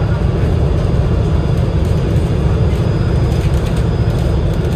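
Steady low rumble of an Enviro500 MMC double-decker bus's Cummins L9 inline-six diesel engine running under way, heard from inside the bus.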